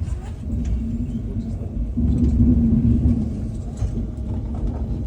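Passenger train rumbling with a steady low hum that swells for a second or so about two seconds in.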